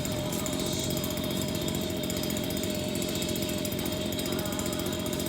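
A small engine running steadily with an even drone and a constant whining tone.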